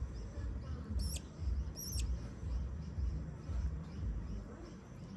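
Budgerigar giving two short, high, wavering chirps, about one and two seconds in, over an uneven low rumble.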